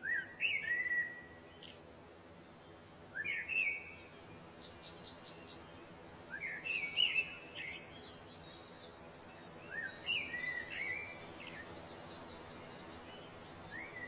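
Wild birds singing: one bird repeats a short, warbling phrase of gliding notes about every three to four seconds. Another bird's quick, high chirps come in between, over a steady faint background hiss.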